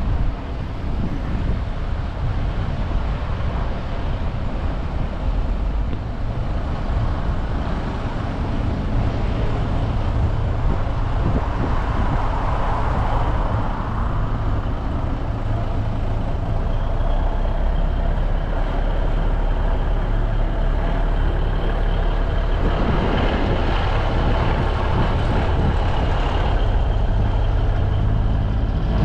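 Heavy truck engines running steadily, with louder swells as trucks pass or rev.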